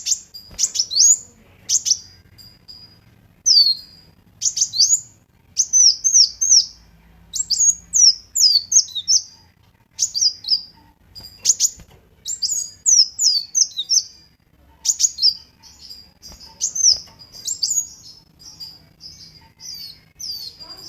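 Kolibri wulung sunbird singing: bursts of sharp, high chirps and quick slurred whistles, repeated in short phrases with brief pauses between them.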